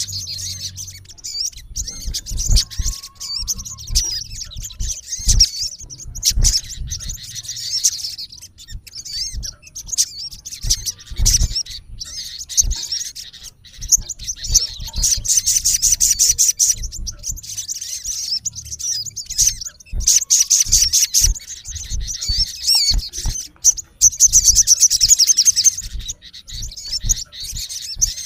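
Male olive-backed sunbird giving harsh, high-pitched chirps and fast chattering trills in repeated bursts, the calls of a male challenging a rival. The loudest burst comes a little past three-quarters of the way through. Low thumps are scattered underneath.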